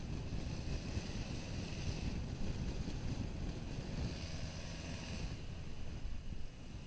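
Wind buffeting the microphone of a motorcycle-mounted action camera while riding, with the motorcycle's engine running underneath. A steadier engine hum shows through from about four seconds in, and the rumble eases near the end.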